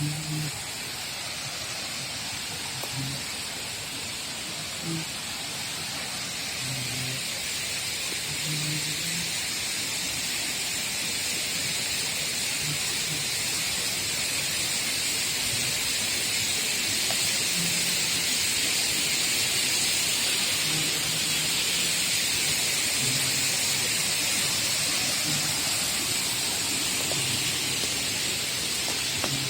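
Waterfall rushing: a steady hiss of falling water that grows a little louder through the clip.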